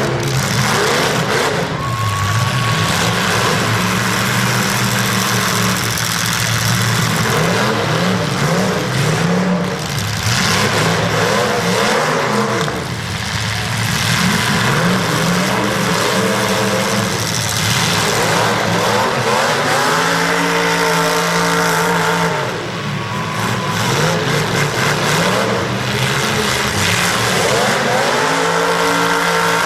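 Demolition derby cars' engines revving hard, several at once, their pitch climbing, holding and dropping back again and again.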